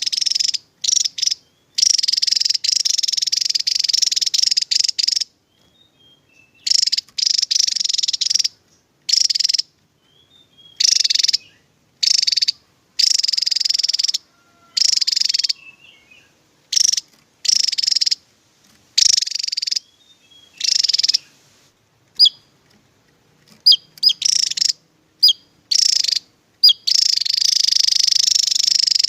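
Javan tesia singing its rapid, high-pitched 'tembakan' song in dense bursts of one to a few seconds, broken by short gaps, with a few single sharp chirps about two-thirds of the way through.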